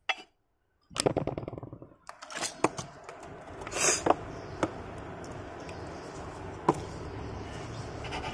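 Handling noise of small die-cast toy cars and their packaging being moved: a quick run of clicks, then scattered taps and knocks, the loudest about four seconds in.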